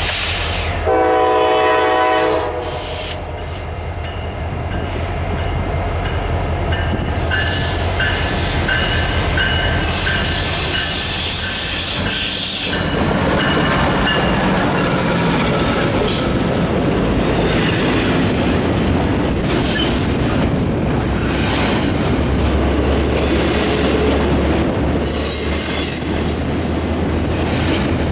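Diesel locomotive horn sounds one chord-like blast of about a second and a half, a second in. A long freight stack train then rolls by: the steady low rumble of the diesel engines, and the rolling noise of the cars' wheels on the rails, with high wheel squeals near the end.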